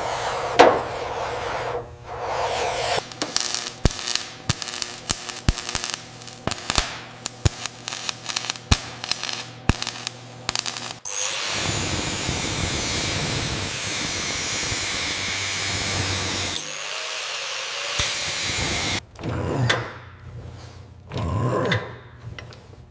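Workshop tool work on metal: a rapid run of sharp taps and knocks, then a power tool running steadily for about five seconds, then a few scattered knocks and scrapes.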